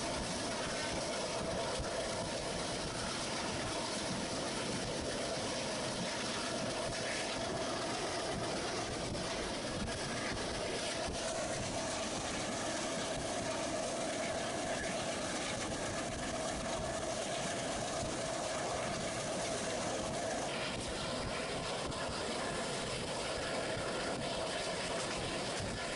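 Moving passenger train running steadily: a continuous rumble of the wheels on the rails with a steady hum.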